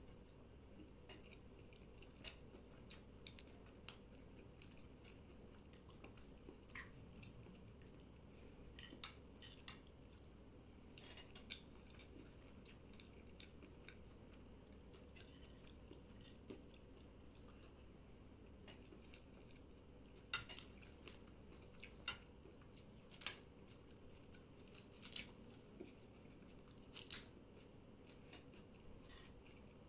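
Chewing and mouth sounds of a man eating macaroni pasta: scattered short, wet clicks and smacks over a quiet room. A few louder ones come in the last third.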